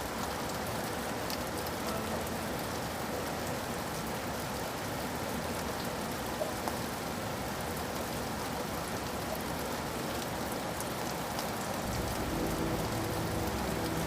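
Steady rain falling on a surface, a continuous hiss with scattered sharp drop ticks. A low rumble comes in near the end.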